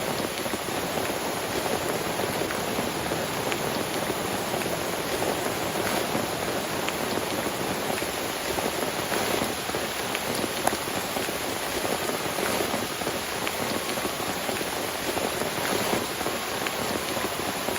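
Steady heavy rain falling, with many separate drop hits ticking through it and one sharper tick near the middle.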